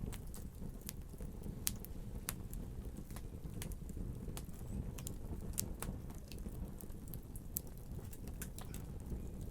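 Fire burning in a fireplace, crackling with sharp irregular pops and snaps over a steady low rush of flame.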